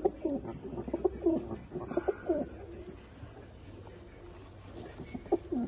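Several domestic pigeons cooing, their low calls overlapping thickly for the first two and a half seconds. A quieter stretch follows, then a few more coos near the end.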